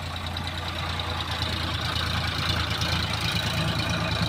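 Tractor engine running steadily, growing a little louder partway through.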